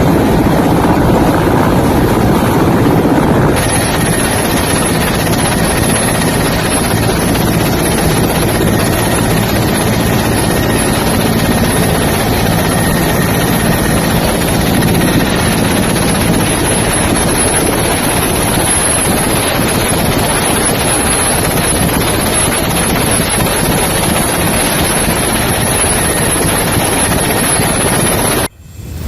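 Loud, steady engine drone with a rushing, wind-like hiss. The hiss changes character at a cut about three and a half seconds in, and the sound stops abruptly near the end.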